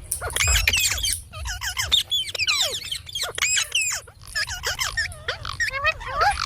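Indian ringneck parrot chattering: a rapid string of squeaky calls and whistles sliding up and down in pitch, with a couple of short pauses.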